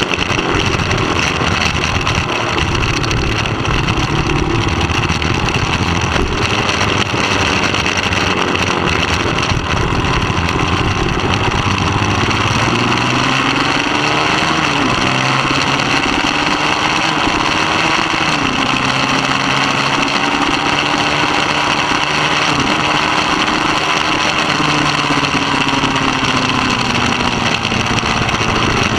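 Middleweight superbike engine running hard on track, its pitch rising and falling with the throttle and dropping sharply a few times at gear changes, over a steady rush of noise.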